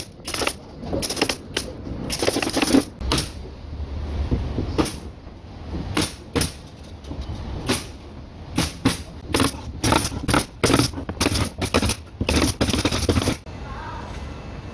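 Carpentry work on a ceiling frame: an irregular run of sharp knocks, clicks and clatter from wood and tools being handled and fastened, with a few longer scraping stretches.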